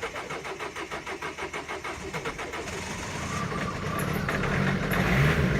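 Diesel van engine cold-cranking on the starter in a quick, even rhythm, then catching and starting to run unevenly about four seconds in, after glow-plug preheating in the cold.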